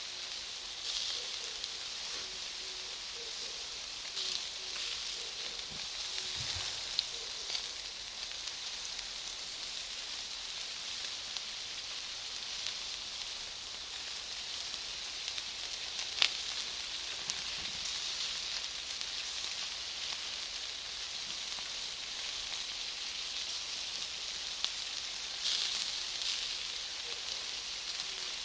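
Bonfire of firewood and cut charcoal crackling with a steady hiss, broken by scattered sharp pops, the loudest about sixteen seconds in.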